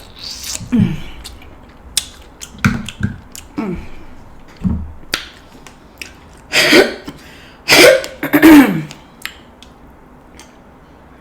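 A woman coughing and clearing her throat after spicy sauce went down the wrong way, with three hard coughs close together about two-thirds of the way through. A few sharp clicks and taps come in between.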